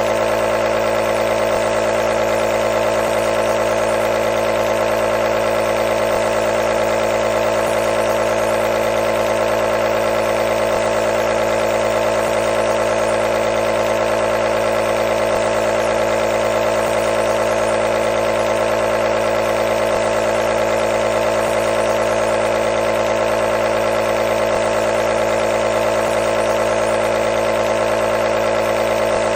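Nebulizer's compressor running continuously, a steady, unchanging motor hum with a hiss of air over it.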